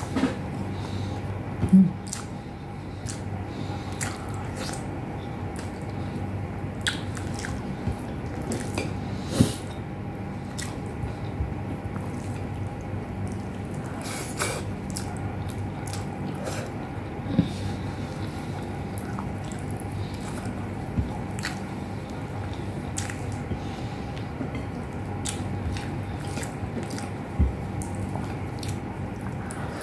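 A person chewing and eating with her fingers, with scattered wet mouth clicks and smacks. The food is beef stewed with eggplant, eaten with rice.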